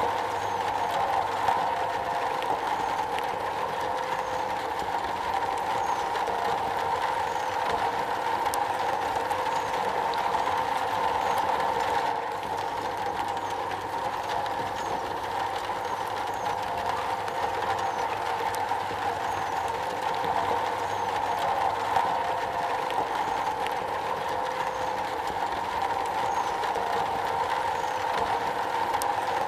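Steady heavy rain drumming on a metal roof, a dense, even patter without breaks.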